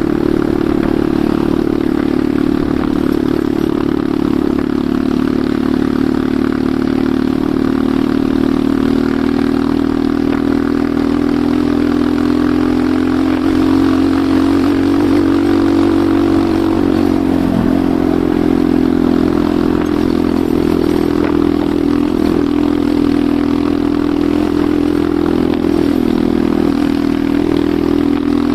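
Enduro motorcycle engine running under way, its pitch rising and falling with the throttle and dipping briefly a little past the middle.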